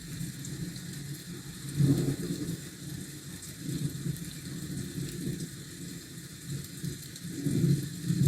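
Steady rain hiss with low rumbles that swell and fade about 2 s in, again around 4 to 5 s, and rise again near the end, like passing city traffic or distant thunder under the rain.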